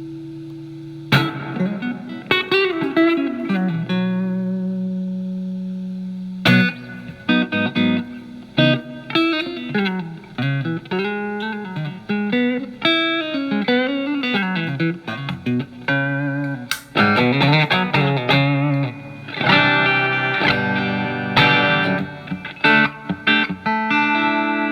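Telecaster with alnico single-coil pickups through a Marshall MG15FX amp's crunch channel, cleaned up by rolling back the guitar's volume. A chord rings out at the start, then comes a lead line with bent notes, and repeated chord strums near the end.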